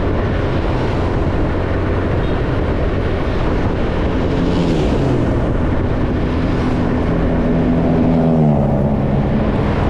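Small motorcycle engine running on the road, with wind rushing over the microphone. The engine note drops in pitch twice, about four and eight seconds in, as the revs fall.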